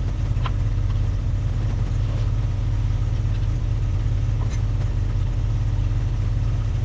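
1973 Ford F-250's 360 FE V8 idling steadily with a deep, even rumble, with a few faint clinks over it.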